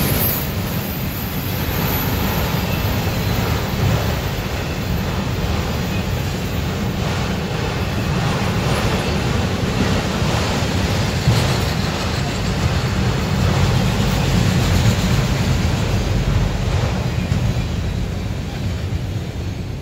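Freight train of autorack cars rolling past: a steady rumble and rattle of steel wheels on the rails, with a sharp knock about eleven seconds in. It eases off slightly near the end as the last car goes by.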